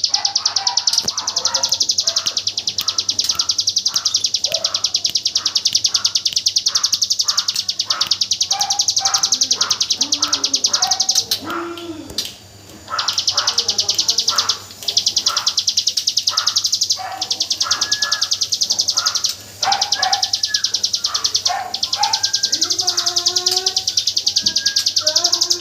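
A ciblek gunung (mountain prinia) sings its rapid-fire 'AK47' song: long, very fast strings of high, even notes like a burst of gunfire, broken by a few short pauses. Softer, varied chirps and whistles sound beneath it.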